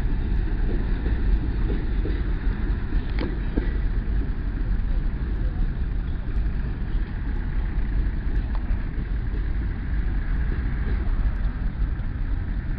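Empty freight train rolling along the rails, a steady low rumble of wagon wheels on the track, with one sharp clank about three seconds in.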